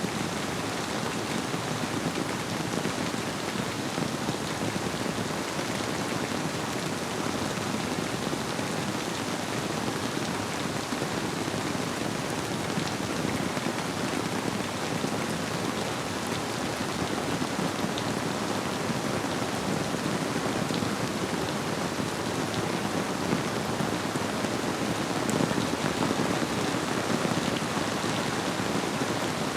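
Steady rain falling on surfaces, a continuous even hiss with scattered individual drops.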